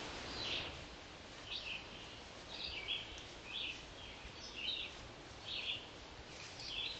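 A bird calling repeatedly, a short high note about once a second, over a steady hiss.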